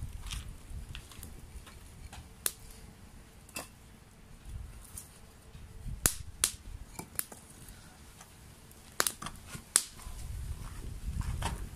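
Campfire wood crackling, with scattered sharp pops, the loudest about six seconds in and a cluster around nine to ten seconds. A low rumble rises near the end.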